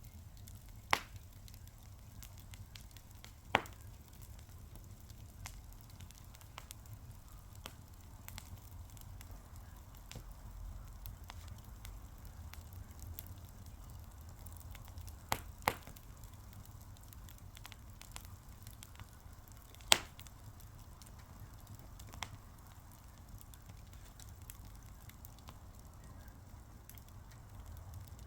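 Wood fire burning with a soft hiss and low rumble, a steady scatter of faint crackles, and a few sharp loud pops of burning wood, the loudest about two-thirds of the way through.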